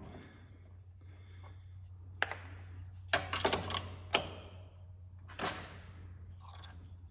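Metal clinks and knocks of a bolt and hand tools against the lower control arm as the second mounting bolt is worked in, a few sharp knocks clustered in the middle, over a steady low hum.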